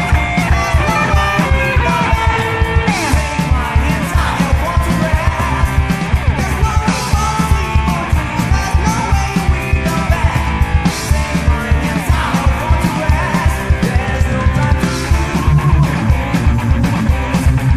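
Heavy metal band playing: distorted electric guitars, bass guitar and drum kit at full volume, with a guitar line bending and sliding in pitch over rapid drumming and cymbals.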